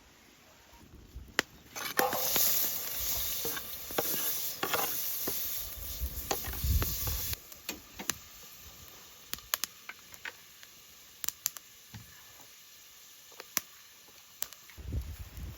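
Food frying in hot oil in a pan, sizzling loudly for about five seconds, then cutting off. After that comes a run of light clicks and taps from a utensil stirring against the pan.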